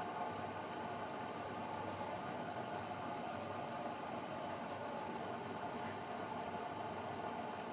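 Grundig washing machine running early in its Refresh programme: a steady mechanical hum with a light hiss, with no change in pace.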